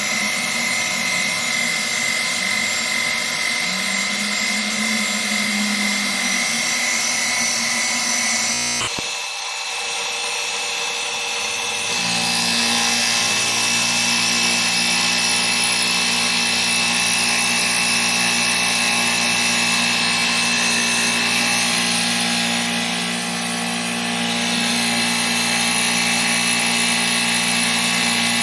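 A CNC-converted Grizzly G0619 (Sieg Super X3) milling machine running under program control, giving a steady mechanical whine with several tones. About nine seconds in the sound briefly drops and changes. From about twelve seconds it settles into a different, slightly louder steady whine.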